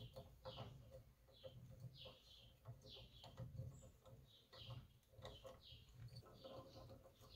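Faint bird chirps, short and high, repeating about every half second, with light clicks and knocks of a hand tool worked against the engine's flywheel.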